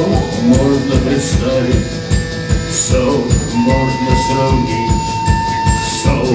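Live rock band playing an instrumental passage: a steady drum-kit beat under bass and electric guitar, with a long held high note entering about halfway through.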